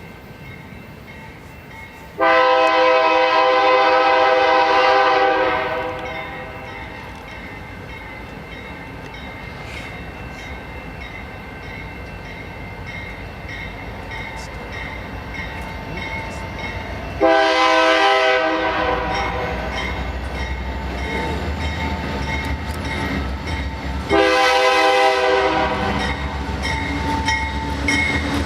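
Locomotive air horn sounding three blasts: one long, then two shorter ones about seven seconds apart, while the low rumble of the approaching train builds up beneath them.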